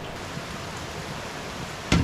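Steady hiss of rain falling, with one sharp knock just before the end.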